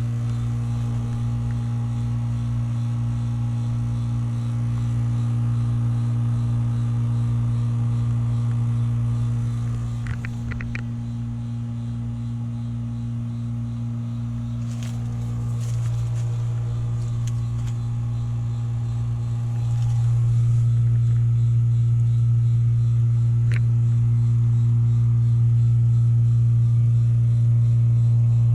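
1981 BDP 3-ton heat pump's outdoor unit running: a steady, loud compressor hum with fainter tones above it. The sound eases a little about ten seconds in, with a few clicks and ticks, and grows louder again about twenty seconds in.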